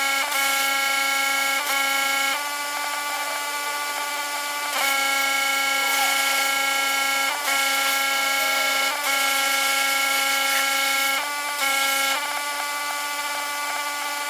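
Pressure washer running with its spray jet hissing, a steady whine under the hiss, cut by short dips every second or few, likely the trigger being let go and pulled again.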